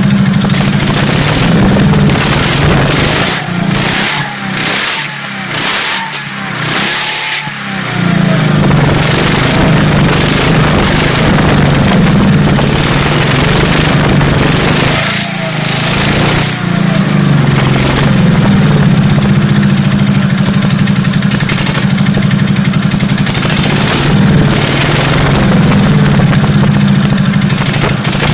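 Soviet M72 motorcycle engine, a side-valve flat-twin, running loudly. Its sound drops away and picks up again several times between about 4 and 8 seconds in, and once more around 15 seconds. The owner reckons it floods at higher revs when the throttle is opened.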